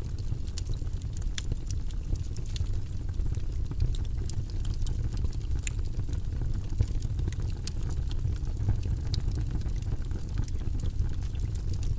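Wood fire burning steadily, with a low rumble and frequent small crackles and pops scattered throughout.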